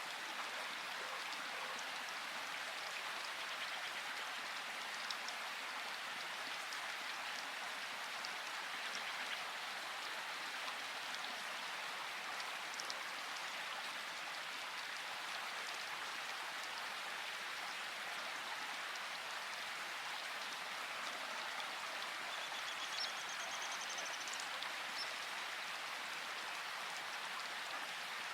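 Steady hiss of falling water, even throughout, with faint scattered ticks and drips.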